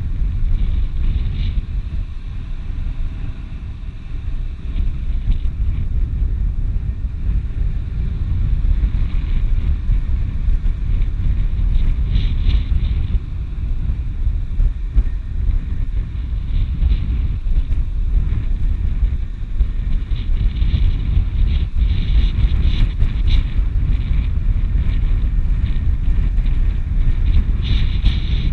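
Slope wind buffeting the microphone: a loud, steady low rumble, with fainter hiss swelling now and then.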